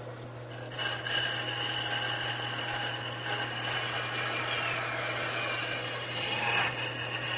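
A woodworking power tool starts running about a second in, with a steady whine that sags briefly near the end, over a constant low hum.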